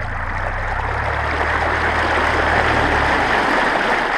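Motorboat under way: a loud steady rush of water along the hull, with a low motor hum beneath it that stops about three seconds in.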